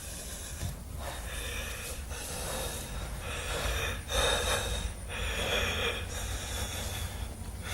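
A person breathing hard in ragged, gasping breaths, about one a second, like someone sobbing in distress.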